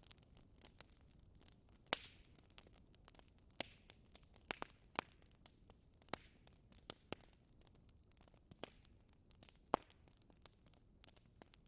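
Wood fire crackling quietly, with irregular sharp pops and snaps. The loudest snaps come about two seconds in and again near ten seconds.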